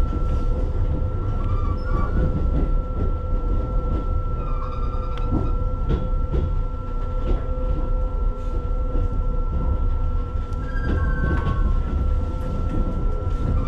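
Keihan electric train rail sounds: a steady low rumble under a constant electrical hum, with scattered clicks and a few brief squeaks.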